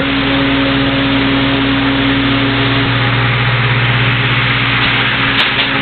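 Antique Victor 'Airplane' 16-inch fan with a six-wing polished aluminum blade, running at full speed with a loud, steady rush of air over a steady motor hum; it sounds like an airplane. A short sharp click comes near the end.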